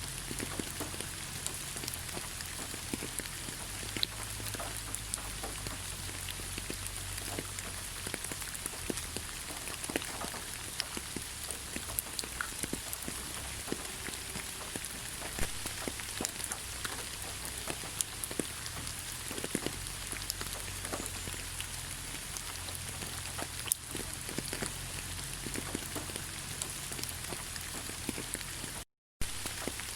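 Steady rain falling in a forest: an even hiss of rainfall with many single drops ticking sharply close by. The sound cuts out completely for a fraction of a second near the end.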